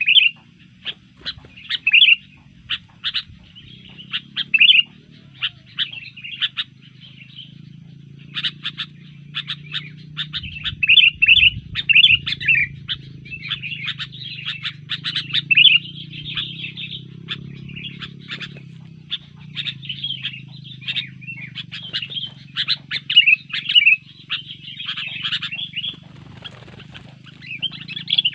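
Sooty-headed bulbul (kutilang) calling in rapid runs of short, chirping notes, the excited calling it gives when disturbed. A low, steady hum runs underneath.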